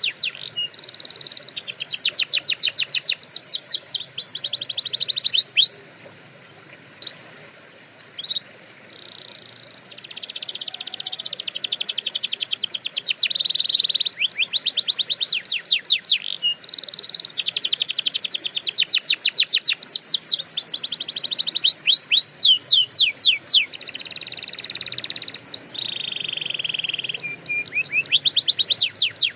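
Canary singing: long phrases of rapid, evenly repeated trill notes, high-pitched, broken by a pause of a few seconds about six seconds in before the song resumes.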